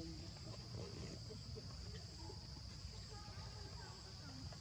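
Steady high-pitched drone of insects, with a low rumble underneath and a few faint short calls scattered through it.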